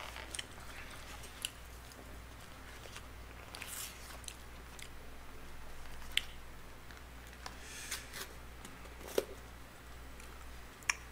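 Close-up chewing of fried snacks (twigim), faint and wet, with several short sharp crunches scattered through, over a low steady hum.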